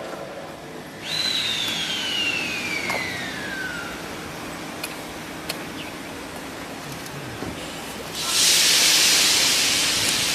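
A 3.5-inch gauge live steam locomotive hissing steam. A high tone slides steadily downward over about three seconds, and about eight seconds in a much louder hiss of escaping steam starts and holds.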